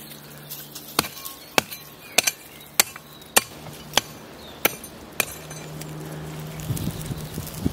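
A hand tool striking hard, about nine sharp blows in an even rhythm of under two a second, then stopping.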